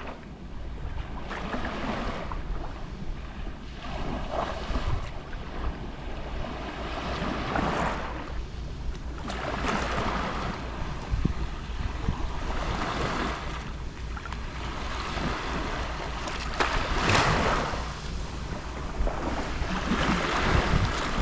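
Gentle sea waves lapping on a shore, each small wave washing in and drawing back in a swell of hiss every few seconds.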